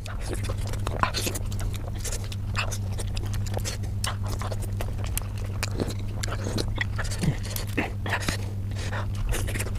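Close-miked chewing and mouth smacking while eating pork momo dumplings, a rapid, irregular string of wet clicks sped up for the compilation, over a steady low hum.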